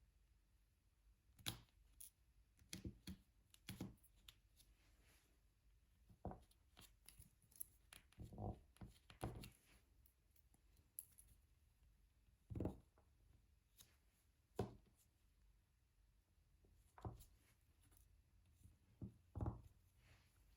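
Faint, irregular taps and clicks of a diamond painting drill pen picking up resin drills and pressing them onto the sticky canvas.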